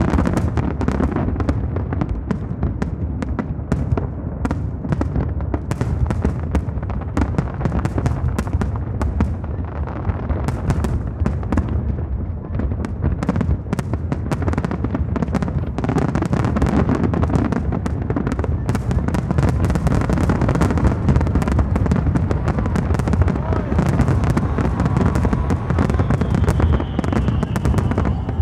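Dense, continuous barrage of aerial firework bursts: rapid overlapping bangs and crackles over a deep rolling rumble, growing denser and louder about halfway through.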